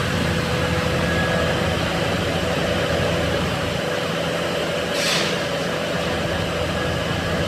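Workshop machinery running with a steady hum and a faint whine, broken by a short hiss about five seconds in.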